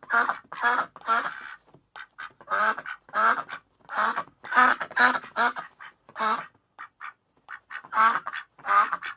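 Duck quacking: a run of short, repeated quacks, a couple a second, with a short break about two seconds in and a few fainter, clipped calls past the middle.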